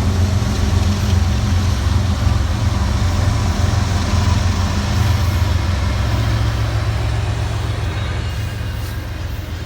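Diesel locomotive engine running loud and steady as a train goes by, a deep drone that eases off over the last couple of seconds.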